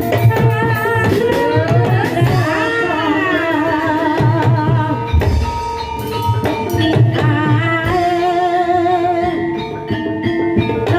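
Live Javanese gamelan accompaniment for a kuda kepang (ebeg) horse dance: a singer's wavering voice over kendang drums and gamelan, with one long upward glide about two seconds in.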